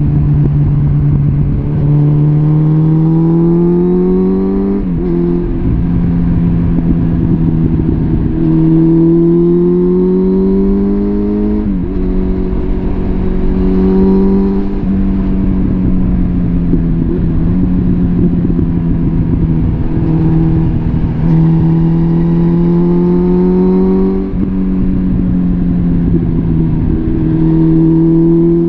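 Suzuki GSF650 Bandit's inline-four engine running through a full Arrow exhaust system under way. Its pitch climbs under throttle and drops sharply at each upshift, three times, with stretches of steady cruising in between.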